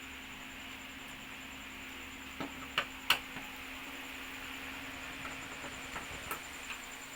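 Sharp clicks and light knocks of small screws and plastic parts being handled while a TV is taken apart. There are two loud clicks close together about three seconds in and a few fainter ticks, over a steady faint hum.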